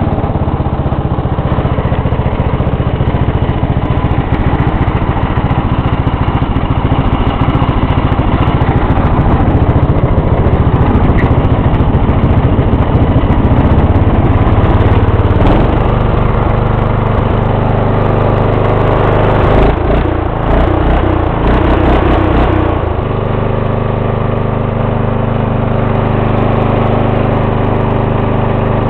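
The 12.5 hp Briggs & Stratton single-cylinder engine of a 1994 Lawn-Boy riding mower runs loud and steady after a cold start. Its note changes about fifteen seconds in and goes uneven for a few seconds around twenty seconds. It then settles into a steadier, slightly quieter run.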